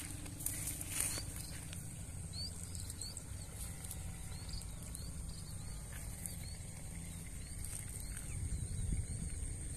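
Outdoor rural ambience: short high chirps from a small animal repeat about twice a second over a steady thin high whine and a low rumble.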